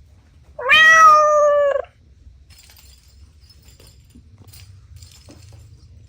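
A cat meowing once: one loud, drawn-out meow of about a second, holding a nearly even pitch and dipping at the end, followed by faint small rustling.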